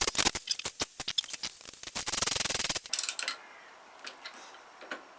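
Socket ratchet clicking as nuts are wound down: a fast run of clicks, then slower single clicks, another fast run, stopping just before three seconds in, followed by a few faint ticks.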